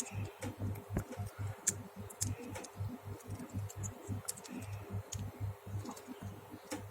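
Small, scattered clicks and taps of a potentiometer's metal frame and hooks being handled and bent back into place by hand, over a low pulsing hum.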